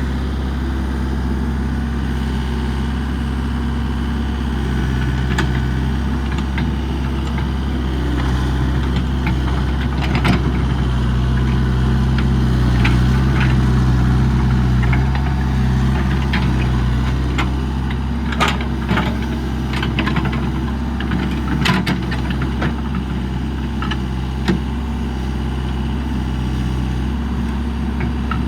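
Komatsu excavator's diesel engine running steadily, a little louder for a few seconds mid-way, with scattered sharp clanks and knocks over it, most of them in the second half.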